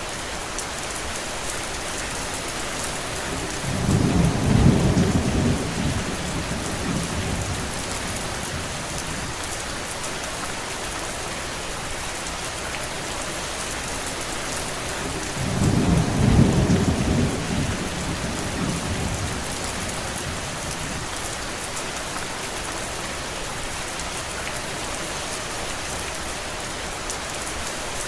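Steady rain falling as an even hiss, with two low rolls of thunder, one about four seconds in and another about sixteen seconds in, each rumbling for a few seconds before fading back under the rain.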